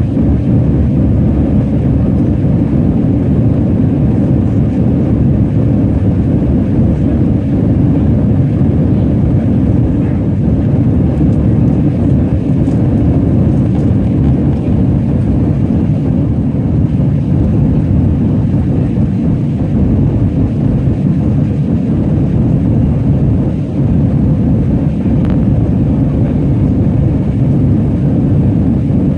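Steady, loud low rumble of a jet airliner's engines, holding level without rising or falling.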